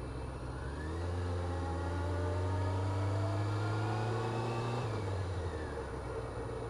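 Honda CBR600F4i inline-four engine pulling under acceleration, its pitch climbing steadily for about four seconds before the throttle closes and the sound drops away, over steady road noise.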